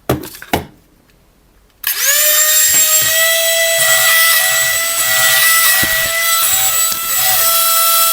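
Two quick clicks, then about two seconds in a small electric motor of an RC toy whirs up suddenly. It runs on as a steady high whine, with brief dips in pitch every half second or so.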